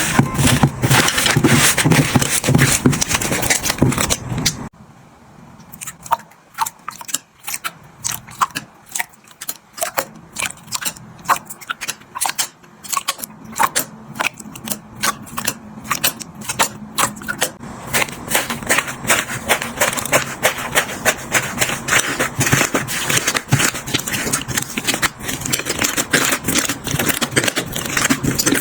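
Slime being squeezed, poked and stretched by hand, making many small sticky clicks, pops and crackles. It starts dense and loud, cuts off suddenly to a quieter run of separate clicks about five seconds in, and the clicks grow denser and louder again.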